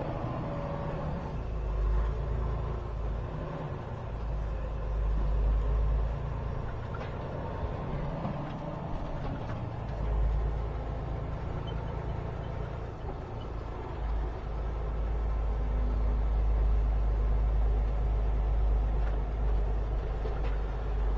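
Semi truck's diesel engine running, heard from inside the cab: a deep low rumble that swells and eases several times as the truck is driven slowly.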